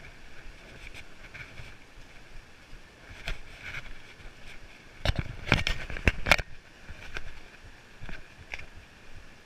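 Footsteps and scuffs on a rocky trail heard through a body-worn action camera, irregular, with a run of louder knocks about five to six seconds in.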